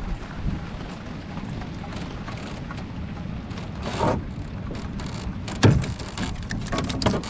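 Rain falling on the water and boat, with wind buffeting the microphone and a few knocks, the loudest about five and a half seconds in.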